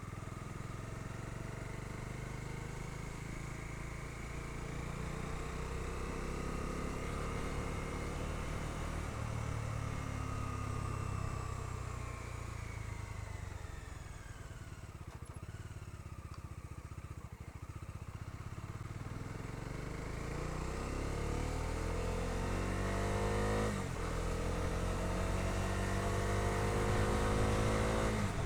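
Bajaj Dominar 250's single-cylinder engine on the move: the engine note falls as the bike slows through the middle, then rises again as it accelerates, with a brief dip and drop in pitch at a gear change about three-quarters of the way through and another at the end. Wind and road noise run underneath.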